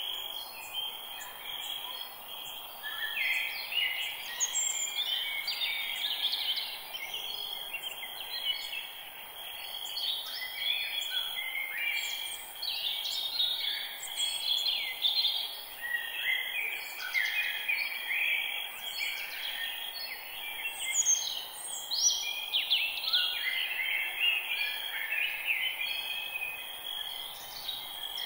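A dense chorus of many birds chirping and singing, short calls overlapping throughout, over a faint steady high-pitched drone.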